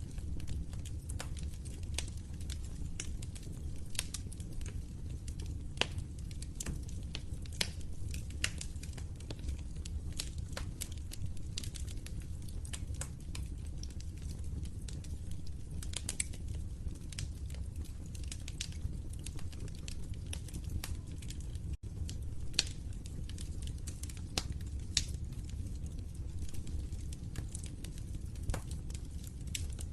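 Wood fire crackling in a fireplace: many irregular sharp pops and snaps over a steady low rumble of the flames. The sound drops out for an instant about two-thirds of the way through.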